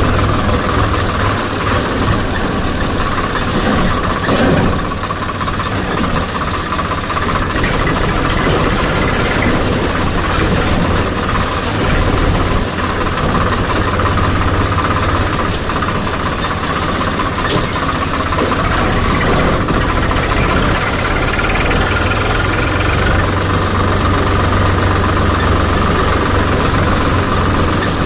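Diesel engine of heavy machinery running steadily.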